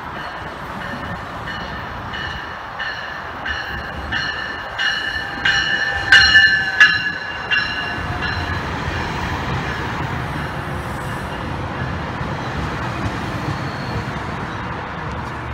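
GO Transit bilevel commuter train arriving: its bell rings steadily, about three strokes every two seconds, growing loud as the front of the train passes and stopping about eight seconds in. The coaches then rumble past with a steady low rolling noise.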